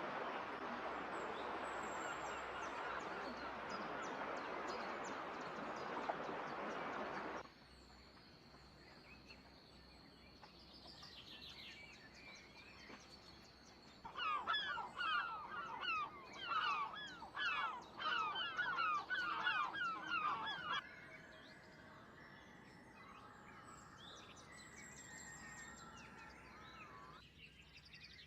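Birds calling outdoors, in joined-up recordings. A dense, hiss-like din cuts off suddenly about seven seconds in, leaving faint chirps and a steady high trill. About halfway through comes a loud run of rapid, repeated, downward-sliding calls lasting several seconds, then quieter calls.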